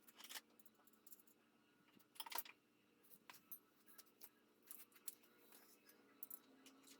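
Near silence with faint scattered clicks and taps, the loudest about a quarter second in and near two and a half seconds in, over a faint steady hum.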